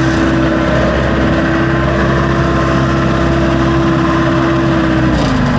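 Backhoe engine running steadily, its pitch dropping slightly near the end.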